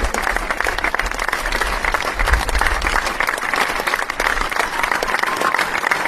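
Large crowd applauding steadily, a dense, even mass of many hands clapping, with a faint murmur of voices underneath.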